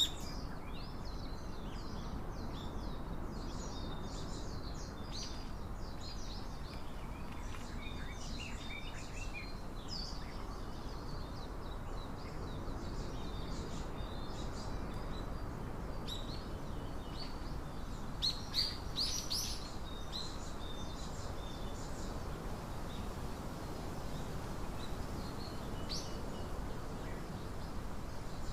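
Small wild birds chirping and calling in many short notes, with a louder burst of chirps about two-thirds of the way through, over a steady low background noise.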